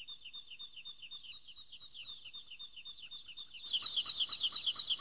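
Birds chirping: a steady run of short, high, falling chirps, about five a second, with a second, louder chirping joining in after about three and a half seconds.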